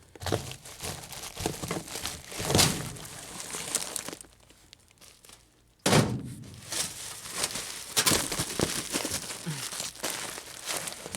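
Torn flexible HVAC duct being handled and discarded: its plastic jacket and insulation crinkle and rustle in uneven bursts, with knocks. After a short lull, a sudden loud thud about six seconds in.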